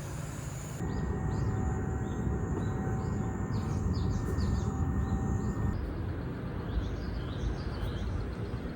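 Outdoor ambience: a steady low rumble, like wind or distant traffic, with small birds chirping over it again and again. The background changes abruptly about a second in and again near six seconds.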